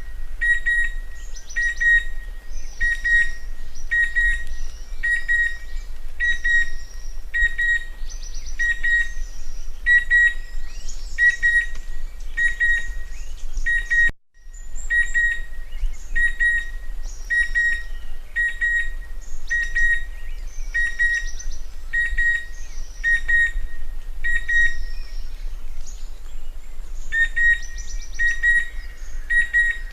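Chestnut-winged cuckoo calling: a short, high whistled note repeated about once a second, with other birds chirping higher in between. The calls break off for a moment about halfway through.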